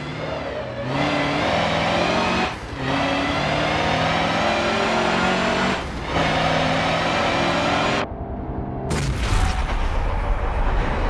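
Mercedes-Benz racing truck's diesel engine pulling hard at steady revs, with brief dips at gear changes three times. About 8 seconds in the engine sound cuts off and music takes over.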